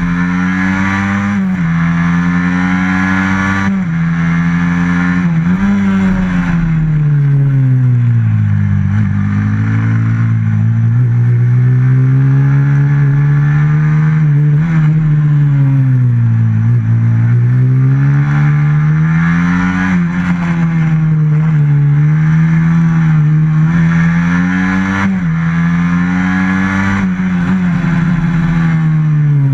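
Small single motorcycle engine, a stock FXR150, heard on board and lapping hard. It revs up through the gears with quick drops in pitch at the shifts, then falls away into corners and climbs again several times.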